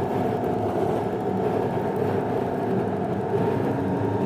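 Steady road and engine noise of a car being driven, heard from inside the cabin: an even low hum with no sudden events.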